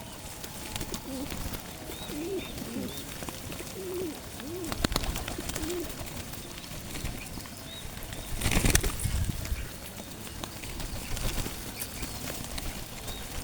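Pigeons cooing: a run of low, soft rising-and-falling notes, with a brief louder burst of noise about two-thirds of the way through.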